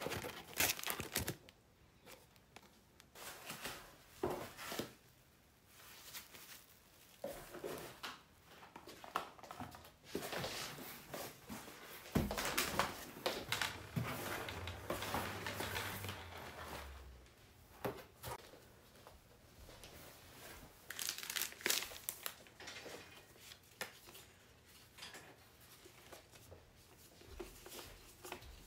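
Packaging being unwrapped by hand: irregular crinkling and tearing of wrapping material, in bursts, busiest about halfway through.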